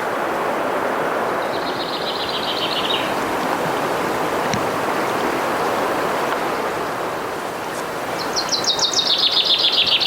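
Steady rush of a river, with a small songbird singing a fast trill that drops in pitch at its end, twice: once about a second and a half in, and again, louder, near the end.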